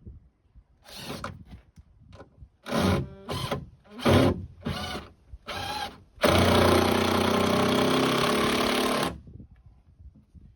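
Power drill run in about six short trigger bursts, then held for one longer run of about three seconds before stopping.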